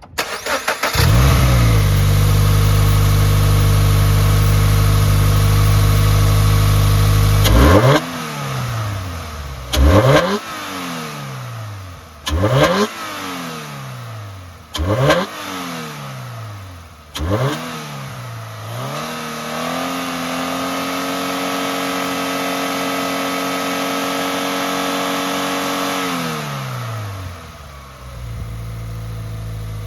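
Toyota 86 FA20 2.0-litre flat-four boxer engine starting up about a second in and settling into a steady fast idle, then blipped five times in quick succession, each rev rising sharply and falling away. It is then held steady at raised revs for about six seconds before dropping back to idle near the end.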